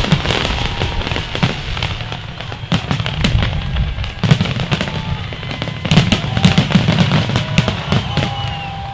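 Fireworks display: aerial shells bursting in rapid, overlapping bangs and crackles over a low rumble. The bursts come thickest about four seconds in and again in the last few seconds.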